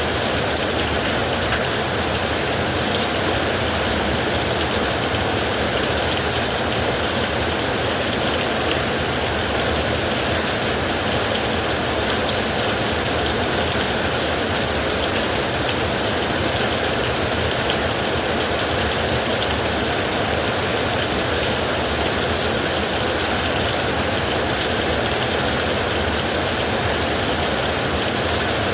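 Heavy rain pouring on a roof: a dense, steady hiss with a low rumble underneath, unchanging throughout.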